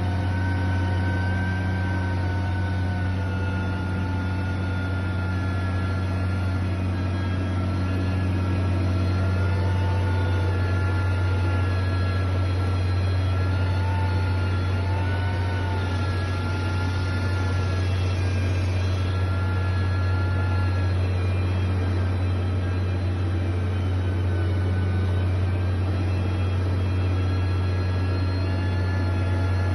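Heavy diesel machinery running steadily: a constant low engine drone with a fainter higher whine that drifts slowly in pitch.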